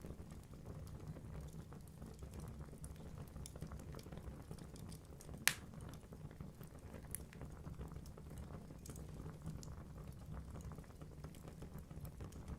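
Wood fire burning in a fireplace: a steady low rumble of flames with scattered small crackles from the burning logs, and one sharp, much louder pop about midway.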